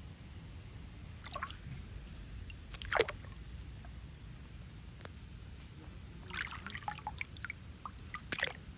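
Water splashing and dripping in short, irregular bursts. The loudest splash comes about three seconds in, and a cluster of smaller splashes and drips comes near the end.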